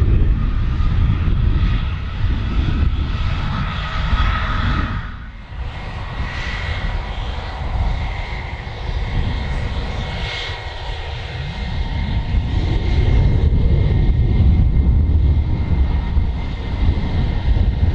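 Airliner engines running loud: a heavy low rumble with a steady higher whine, rising and falling slightly.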